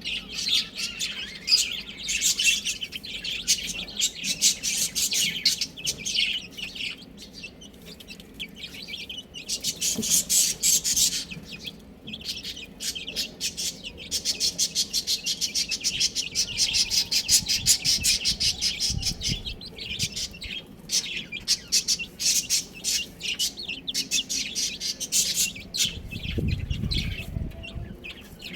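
A group of baby chicks peeping continuously, with many rapid high-pitched chirps overlapping. A brief low rumble comes near the end.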